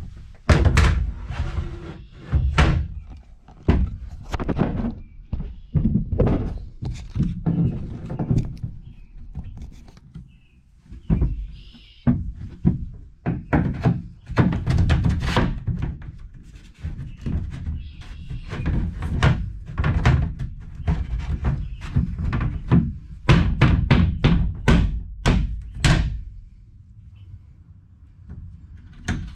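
Repeated irregular thunks and knocks as a porta-potty toilet seat is handled and fitted back onto the unit.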